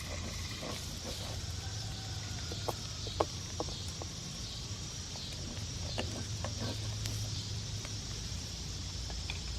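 Eggs frying faintly in a cast iron skillet over a campfire, with a few light clicks of a utensil against the pan about three seconds in.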